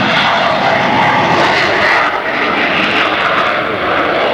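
Fighter jet engine running loud and steady as the jet flies.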